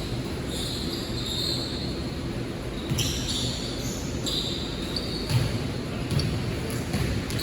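Basketball being played on an indoor court: sneakers squeak on the floor again and again, and the ball thuds a few times in the second half.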